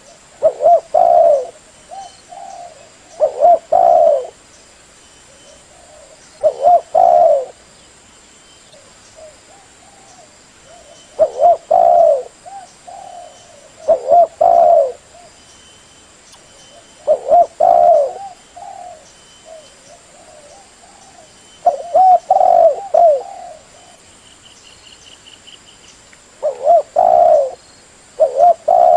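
Spotted dove (tekukur) cooing: loud low coo phrases repeated every few seconds, with softer coos between them.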